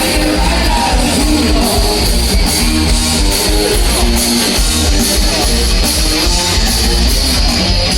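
Live rock band playing an instrumental passage led by electric guitar, over a steady pulsing bass and drums, with no singing.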